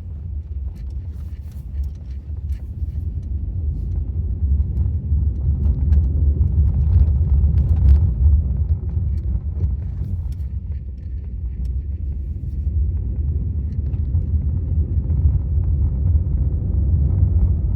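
Maruti Suzuki Swift VXi petrol hatchback being driven: a steady low rumble of engine and road noise that builds a little for a few seconds partway through, then eases, with a few faint clicks.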